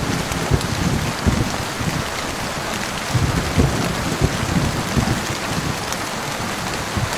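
Steady heavy rain hissing, with frequent irregular low thumps of rain hitting a surface.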